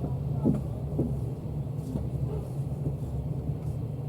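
Steady low rumble of a KTM sleeper train, with a few brief faint sounds over it.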